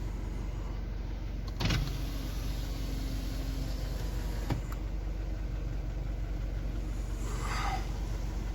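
Steady low rumble of a car driving, with a short knock about two seconds in.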